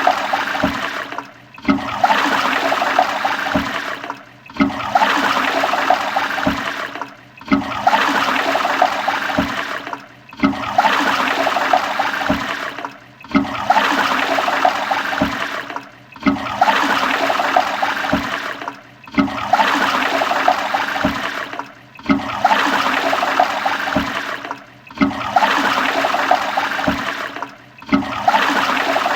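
Toilet flushing: a rush of water swirling down the bowl. The same short flush repeats about every three seconds, with a brief drop in sound between each one.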